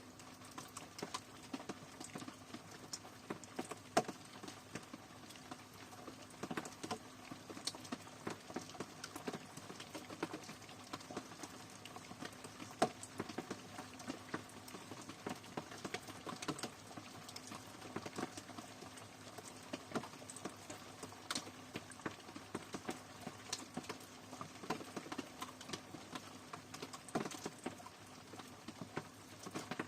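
Rain falling, with many irregular drops pattering and ticking on a hard surface over a steady soft hiss.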